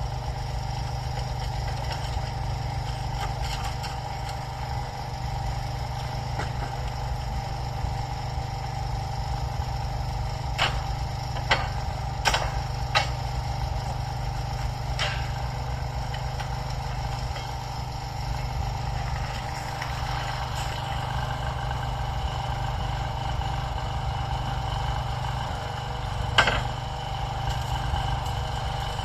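Railway track maintenance machinery with its engine running steadily at a constant pitch. A few sharp knocks come through between about ten and fifteen seconds in, and another near the end.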